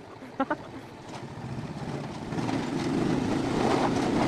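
A heavy vehicle's engine running, growing louder over the first two seconds and then holding steady, after two short clicks about half a second in.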